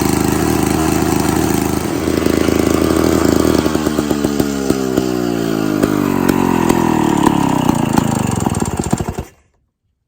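Victa 18 lawn mower engine running steadily, then from about three and a half seconds in its speed falls away over several seconds, the pitch sliding down and the separate firing beats becoming audible as it winds down. The sound cuts off abruptly near the end.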